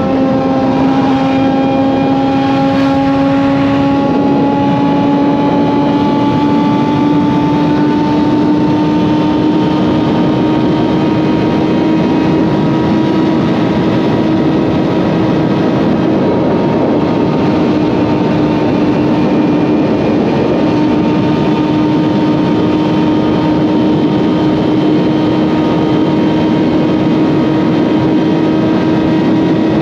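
Suzuki GSX-R750 inline-four motorcycle engine with an M4 slip-on exhaust, running steadily at highway cruising speed. The engine note climbs slowly over the first ten seconds or so, then holds level over a constant rushing noise.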